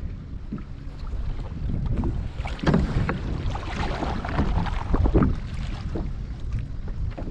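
Wind buffeting the microphone over choppy water, with a sit-on-top kayak's paddle strokes and small waves splashing against the hull, the splashing busiest in the middle.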